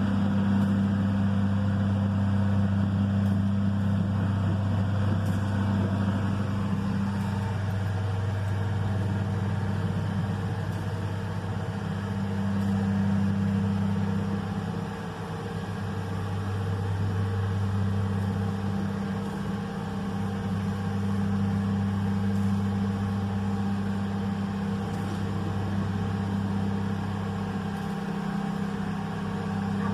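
Loram shoulder ballast cleaner train's diesel engines running steadily with a low hum, easing slightly a couple of times midway as the train moves slowly.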